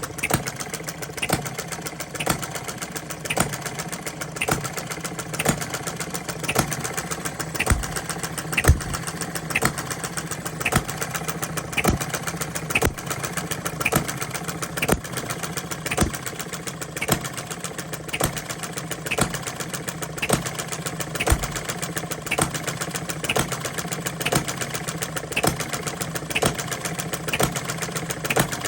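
Small model stationary gas engine running steadily, firing with a strong knock about once a second and lighter ticking between strokes. The engine is newly built and, by its builder's account, still needs breaking in.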